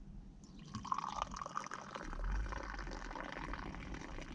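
Hot mint tea poured in a steady stream from a teapot, starting about half a second in.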